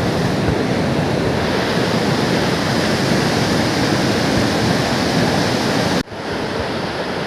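Waterfall roaring: a loud, steady rush of falling water, broken by a brief drop-out about six seconds in.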